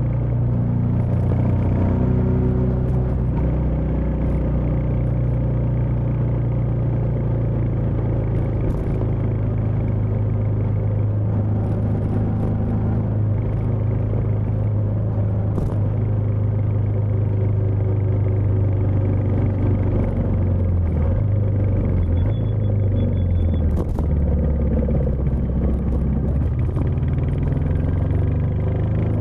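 Royal Enfield Meteor 350's single-cylinder engine running with a steady, even note. The pitch shifts and drops about twenty to twenty-four seconds in, then settles again.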